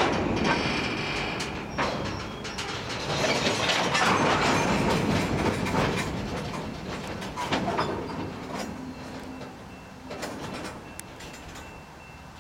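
Freight train moving through a rail yard: steel wheels and cars clanking and clicking over rail joints and switches. The sound is loudest at the start and about four seconds in, then fades, leaving a low steady hum near the end.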